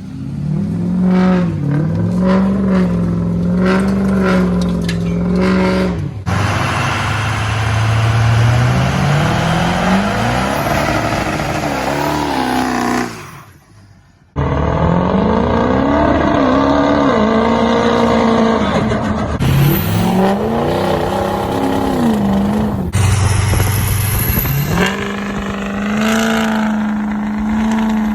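Loud diesel pickup truck engine. It holds a steady drone for several seconds, then revs up and down again and again, with abrupt cuts between passages and a brief drop-out about halfway through. Near the end it settles into a steady higher drone.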